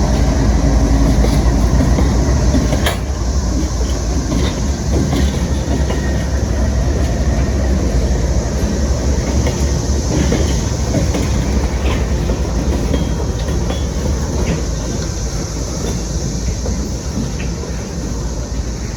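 Freight cars of a CSX manifest train rolling past: a steady rumble with wheels clicking over rail joints, easing off a little towards the end. A steady high drone of periodical (17-year) cicadas runs behind it.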